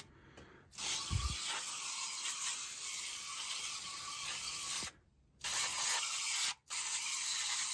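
Aerosol can of Viper foaming coil cleaner hissing as it is sprayed onto a dirty evaporator A-coil. It runs in long bursts, starting just under a second in and stopping briefly about five and six and a half seconds in.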